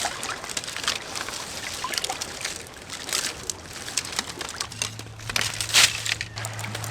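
Dry seaweed gathered by hand on the shore: crackly rustling and crunching in short bursts, the loudest near the end, with water lapping at the shore.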